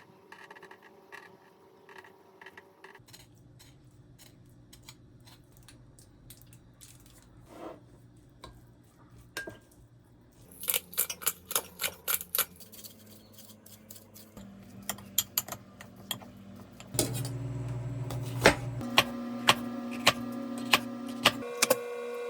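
Kitchenware clattering: dishes and utensils clinking and tapping, with a quick run of taps about halfway through. A steady hum comes in about two-thirds of the way through, with regular sharp clicks over it.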